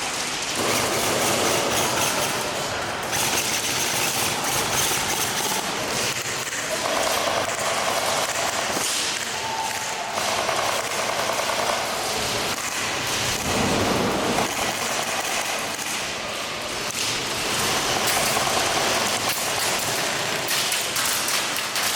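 Airsoft guns firing in rapid bursts, with dense clatter and thuds of BBs striking surfaces.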